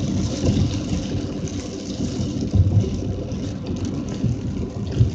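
Heavy rain pouring down, with a steady low rumble underneath and a few sharp taps in the second half.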